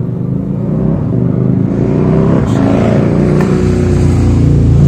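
Motorcycle running with no exhaust fitted, loud and open, revving up and down and growing louder.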